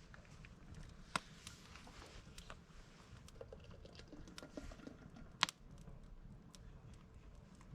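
Wood campfire crackling, with many small irregular pops and two sharper snaps, one about a second in and the loudest about five and a half seconds in.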